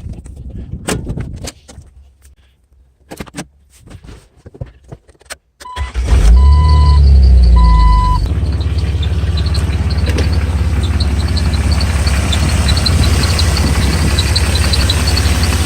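A few clicks and knocks, then a car engine starts about six seconds in, with two short electronic chimes while it catches, and settles into a steady idle. Over the idle comes a rapid high-pitched chirp, several times a second, from the serpentine belt drive under the hood. Possible causes are the belt itself, the tensioner idler pulley, the water pump or the power steering pump.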